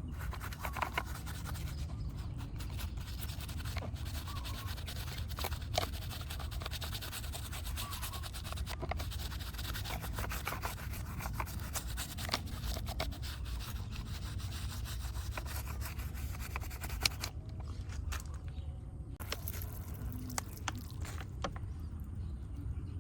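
Scrubbing and rubbing on a small, muddy diecast model car, with many small clicks and taps, over a steady low hum.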